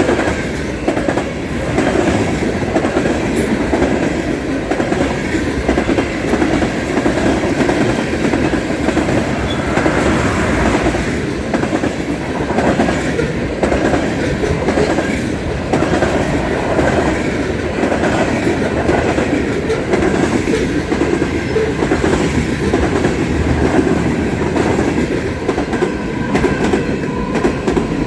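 Freight train cars rolling past, wheels clacking over the rail joints in a steady repeating clickety-clack.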